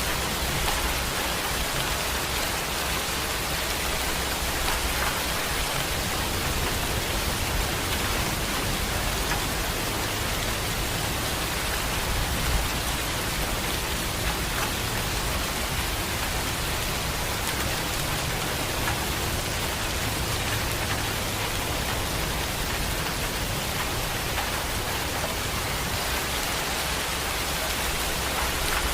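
Heavy rain falling steadily, with a low rumble underneath through the middle stretch.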